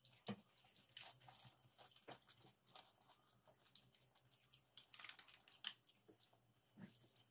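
Faint crunching and chewing of pani puri: crisp hollow puri shells being cracked with the fingers and bitten, heard as scattered small crackles and clicks.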